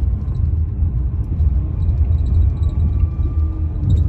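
Inside a moving car: a steady low rumble of road and engine noise while driving, with a faint whine above it.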